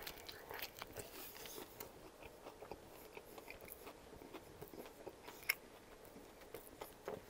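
Close-miked chewing of a mouthful of buffalo chicken wrap with soft tortilla, lettuce and cornflake-crusted chicken: faint wet mouth sounds and small crunches, busiest just after the bite, with one sharper click about five and a half seconds in.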